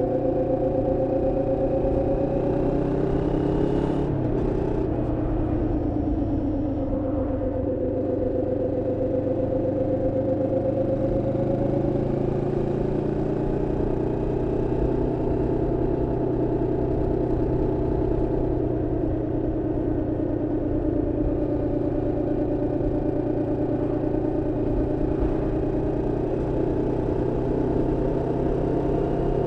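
Moto Morini X-Cape 649's parallel-twin engine running on the road at moderate revs during break-in. The engine note drops briefly about four seconds in as the throttle eases, then climbs back and holds steady.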